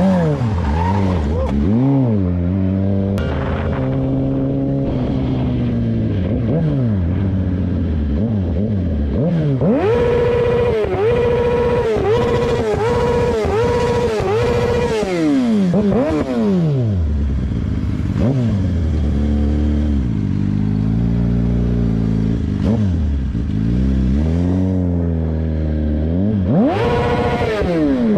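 Motorcycle engine revving, its pitch climbing and dropping again and again. The revs are held high for several seconds in the middle, then fall away steeply.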